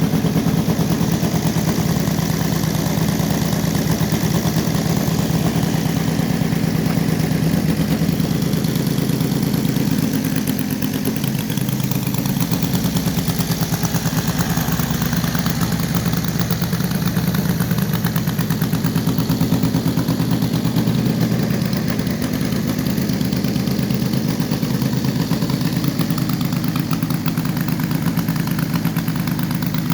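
Combustion engine of a radio-controlled P-47 model warbird running steadily at low throttle, a fast even firing beat, easing off slightly in the middle and picking up again.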